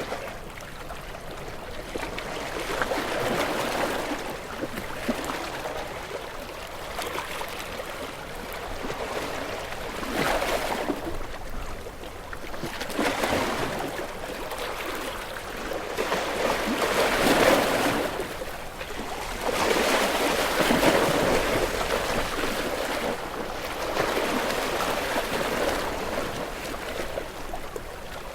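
Ocean waves washing ashore, each surge swelling to a peak and then receding, about every three to four seconds; the largest peaks come around halfway through and again a few seconds later.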